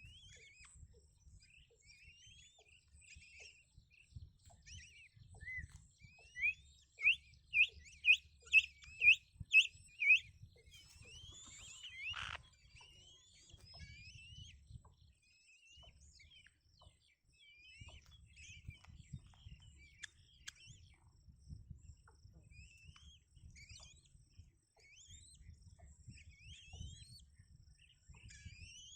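Birds chirping: many short rising chirps, with a run of about eight louder rising chirps at roughly two a second a third of the way in. A faint low rumble runs underneath, and a single knock comes near the middle.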